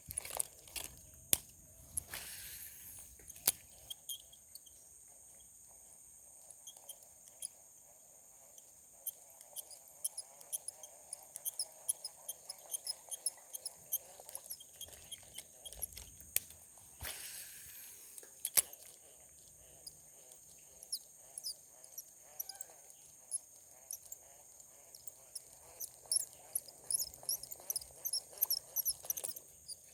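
Steady, high-pitched chorus of insects such as crickets, with many short sharp clicks scattered through it and two brief swishing rustles, about two seconds in and again near the middle.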